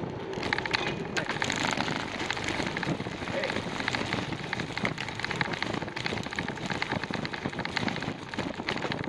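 Steady dense crackling and rustling noise from a bicycle ride, as of tyres rolling over a rough trail surface.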